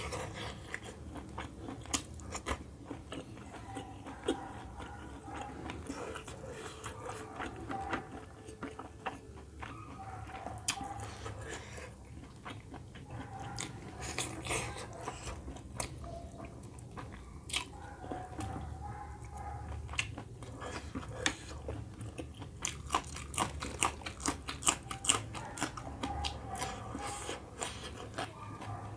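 Close-miked chewing and biting of chicken curry and rice eaten by hand: wet mouth smacks and clicks with occasional crunches, coming thicker near the end.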